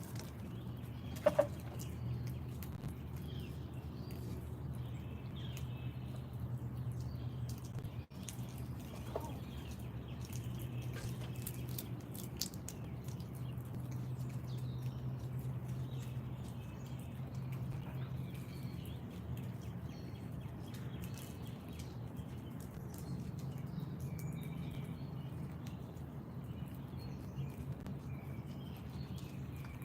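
Outdoor backyard ambience: faint wild birds chirping here and there over a steady low hum. A short, sharp, loud sound about a second in and a smaller one near nine seconds.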